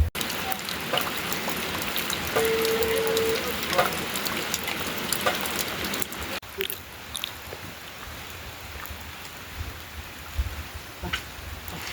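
Rain falling, a steady hiss with scattered drip ticks, louder in the first half and quieter after an abrupt cut about halfway through. A short steady tone sounds for about a second, around two and a half seconds in.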